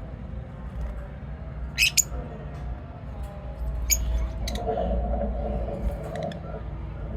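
Pet lovebirds chirping and squawking in short, sharp calls: two close together about two seconds in, more around four seconds, over a steady low hum.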